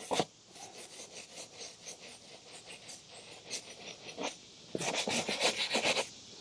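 Scrubbing strokes worked back and forth on a motorcycle's drive chain during cleaning and oiling. Scattered light strokes come first, then a quicker, louder run of strokes for about a second near the end.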